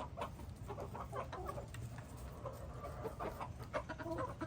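A flock of backyard hens clucking and calling at once, many short overlapping calls as they eat and squabble over treats.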